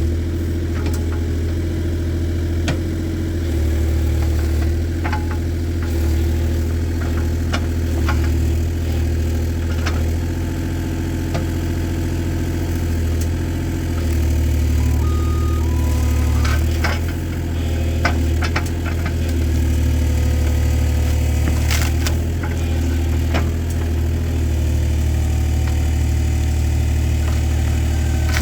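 Husqvarna 555 chainsaw's two-stroke engine idling steadily, with a few light clicks and ticks over it.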